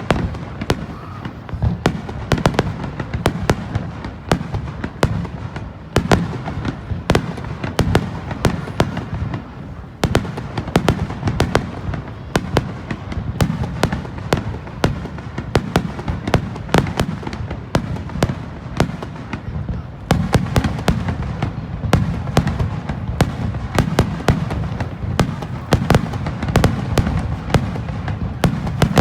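Fireworks display: a rapid barrage of sharp bangs and crackles, many in quick succession, over a continuous low rumble of booms.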